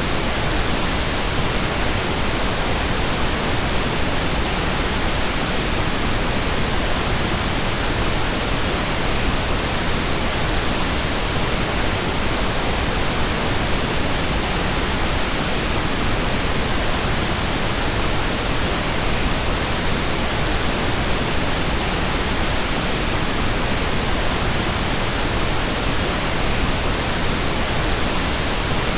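Steady pink noise: an even, unchanging hiss spread across the whole range of pitch, with no events or changes.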